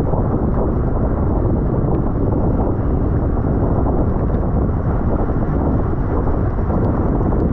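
Steady wind rush buffeting the microphone of a camera riding along on a racing bicycle at speed.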